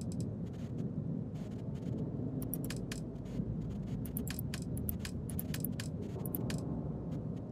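Irregular computer mouse and keyboard clicks, single and in quick runs, over a steady low hum.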